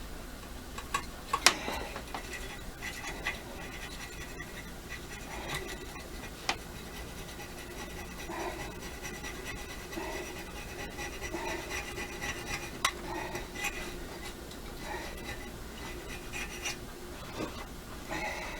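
Hand scraping of stuck old gasket material and RTV sealant off the rough cast surface of a V8 intake manifold: repeated scratchy strokes with a few sharp clicks of the tool, the loudest about a second and a half in.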